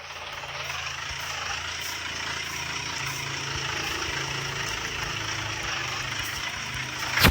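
Heavy truck engine running steadily at idle, a low even hum under a hiss.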